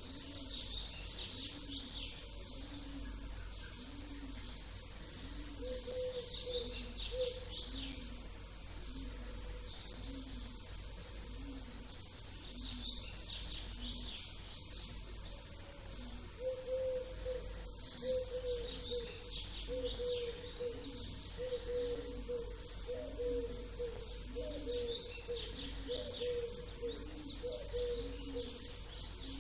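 Many small birds chirping and twittering in a dawn chorus, with a low call repeated about once a second underneath.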